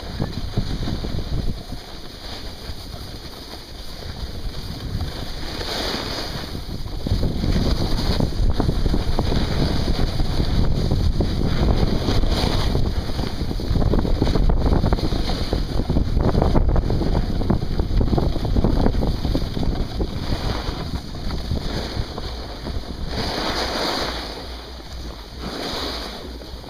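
Wind rushing over the microphone, swelling and easing, with no speech.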